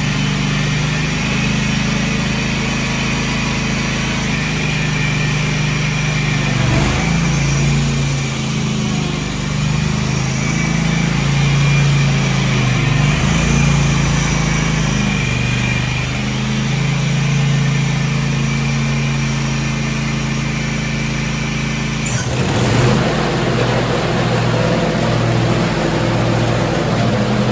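Craftsman G7400 garden tractor's two-cylinder Kohler gasoline engine running steadily, its pitch shifting slightly up and down. A brief knock about 22 seconds in, after which the engine note changes a little.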